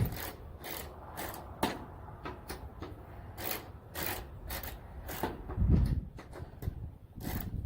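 Hand ratchet clicking in short, irregular strokes as it cranks a rain-gutter hanger down onto the deck. A dull knock a little before six seconds is the loudest sound.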